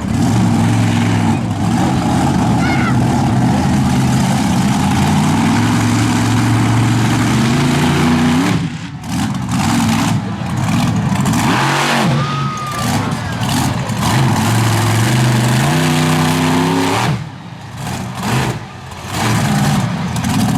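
Monster truck's big-block V8 engine revving hard under load. The pitch climbs, drops off sharply when the throttle is lifted about halfway through and again near the end, then rises again.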